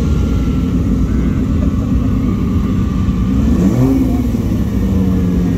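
Car engines running as vehicles drive past at low speed, with one engine revving up, its pitch rising, about three and a half seconds in.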